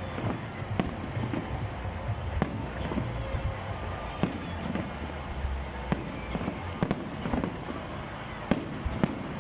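Fireworks display: sharp bangs of bursting shells every second or so, over a steady low rumble.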